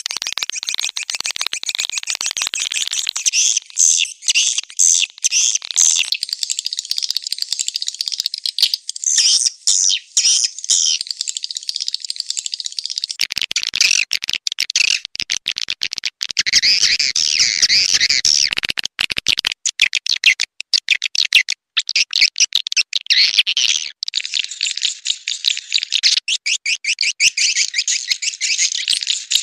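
Swiftlet call recording: a dense, continuous chorus of high, rapid chirps and trills, with fast clicking pulses. It is the lure call played in swiftlet nest houses to attract swiftlets.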